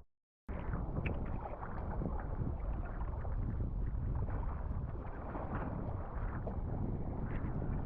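Water rushing and splashing around a kayak, with wind buffeting the microphone; it starts after a brief silent gap.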